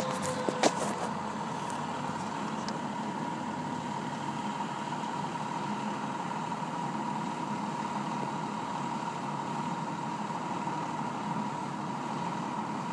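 Fire engine idling, with a steady high tone held throughout. In the first half-second the tail of a siren slides down and fades, and a few sharp knocks sound in the first second.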